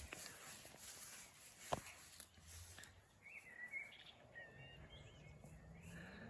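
Faint outdoor ambience with a few soft bird chirps from about halfway through, and one sharp click a little under two seconds in.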